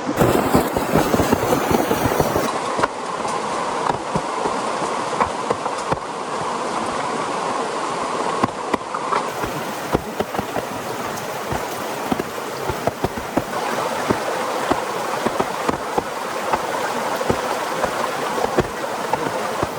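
Steady rain, with many scattered drops ticking irregularly against it.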